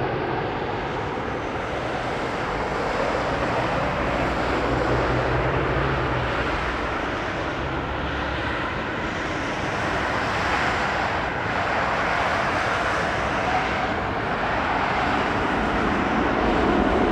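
Passenger jet's engines, a steady rushing roar as the airliner flies past, with a low hum in the first few seconds.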